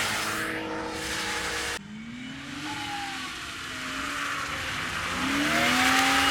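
Drift car's engine held at high revs with tyre squeal, cut off suddenly about two seconds in; then a car engine's pitch falls and rises again as it revs up, with tyre noise returning and growing loudest near the end.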